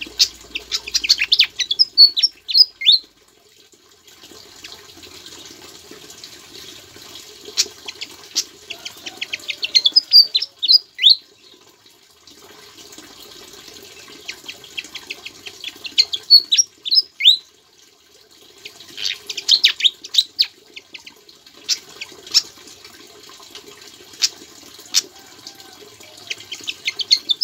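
Sikatan jawa songbird singing in repeated phrases, each a quick run of sharp chips ending in a few clear down-slurred whistles, the phrases returning every few seconds; its song carries mimicked ciblek (bar-winged prinia) notes. A steady water-like hiss runs underneath.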